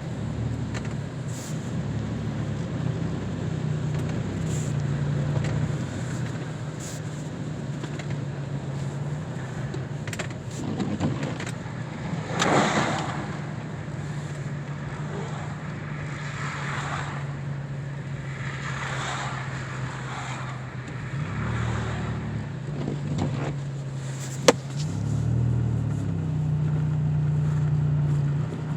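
Car driving, heard from inside: a steady low engine and road hum that shifts in pitch a few times, with several short whooshing swells of hiss and one sharp click near the end.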